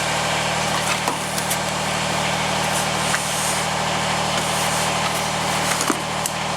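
Kubota BX2380 tractor's three-cylinder diesel engine idling steadily while it warms up before the oil change. A few light clicks are heard over it.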